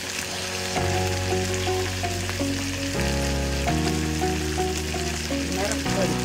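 Goat lungs and liver frying in an iron kadai over a wood fire, a steady sizzle. Background instrumental music comes in about a second in.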